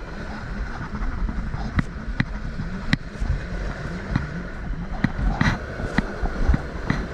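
Steady wash of sea surf, with a series of sharp knocks and clicks about once or twice a second.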